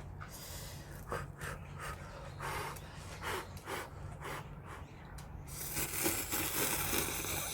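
Someone slurping ramen noodles: several short slurps, then a longer one from about six seconds in, over a steady low hum.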